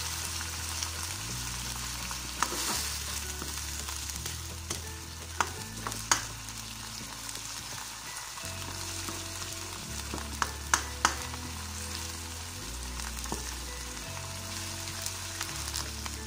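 Sardines, green chili peppers and onions simmering and sizzling in a little sauce in a nonstick wok, with a spatula stirring through them and knocking sharply against the pan a few times.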